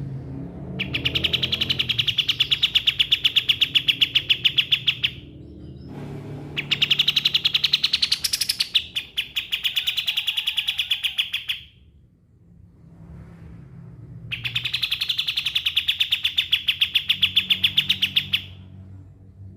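A kapas tembak songbird singing three long, rapid trills of repeated notes, each lasting about four to five seconds with short pauses between them.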